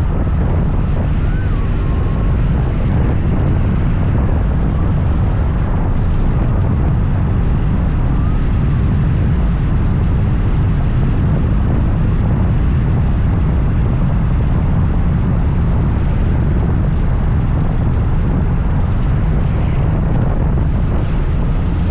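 Riding noise from a scooter under way: a steady rush of wind on the microphone over the scooter's running engine and tyres.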